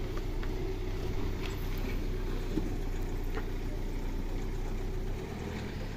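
Hyundai Alcazar SUV's engine idling with a steady low hum.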